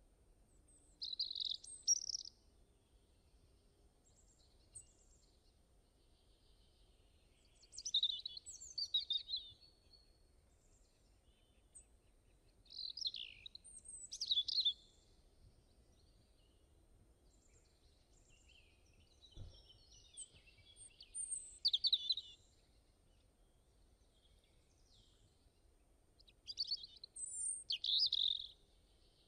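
Birds chirping: five short flurries of quick, high chirps about every six seconds, with quiet between them.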